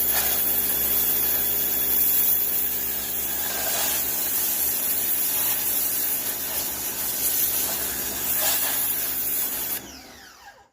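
Toyama TEPW2200 electric pressure washer running: a steady motor hum under a loud hiss. It starts abruptly and cuts off near the end, the motor briefly winding down.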